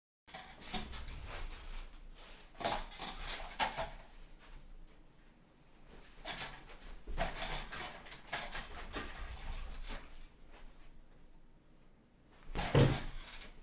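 Scattered clattering and rustling handling noises, like objects being moved about, with a louder thud near the end.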